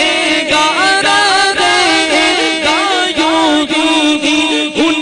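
Unaccompanied naat singing: voices chanting a devotional refrain, the melody sliding up and down in long held notes.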